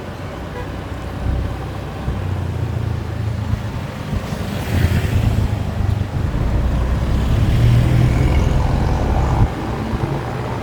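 Motorbike ride: wind buffeting the microphone over the running engine, a steady low rumble. It grows louder about four seconds in and drops suddenly near the end.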